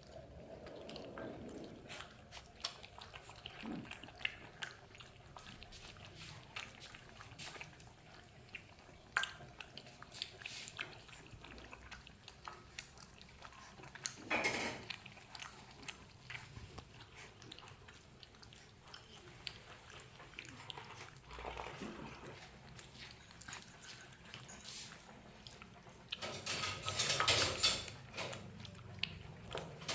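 Saint Bernard puppies lapping and licking formula milk: a steady run of small wet mouth clicks and smacks, with a louder scuffle or puppy noise about halfway through and a busier, louder stretch near the end.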